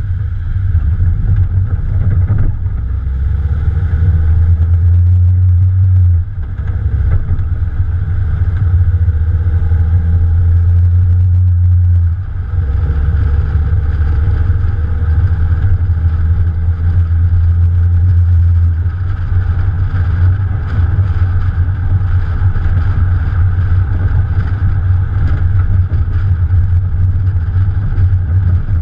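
Morgan Plus 4's Ford 2.0-litre four-cylinder engine running while the car is driven, heard from a camera on the bonnet as a heavy, steady low rumble. The level dips briefly about six seconds in and again about twelve seconds in.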